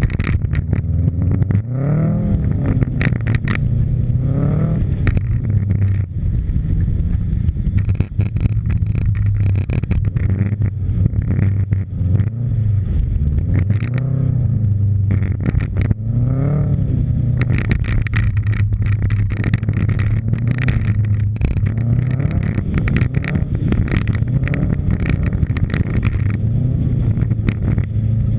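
Subaru Impreza WRX STI's turbocharged flat-four boxer engine at full rally pace, the revs climbing and dropping again and again as it works through the gears. Many short clicks and knocks sound over it throughout.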